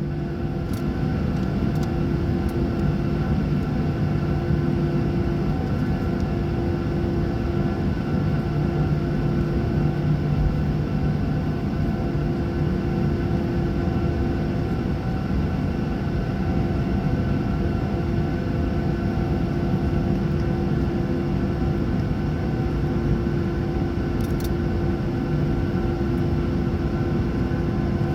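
Boeing 737-800's CFM56 turbofan engines running steadily, heard from inside the passenger cabin as a continuous rumble with a few even, held tones.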